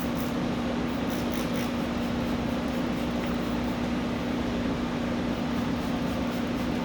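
Electric pet clippers running with a steady hum, with a few short hissing spritzes from a spray bottle about a second in.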